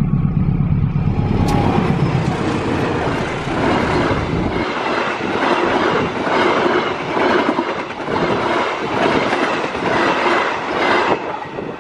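Diesel locomotive hauling a passenger train past at speed: its low engine drone fades after about four seconds, giving way to the loud rush and rhythmic clickety-clack of the coaches' wheels over the rail joints, which falls away near the end.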